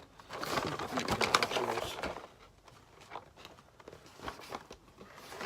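Rustling and clattering of a toy's cardboard packaging being handled, busiest in the first two seconds, then a few light clicks and taps.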